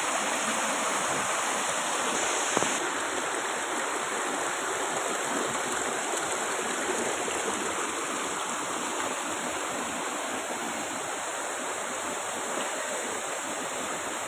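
Waterfall's water rushing steadily, an even, unbroken hiss of falling water.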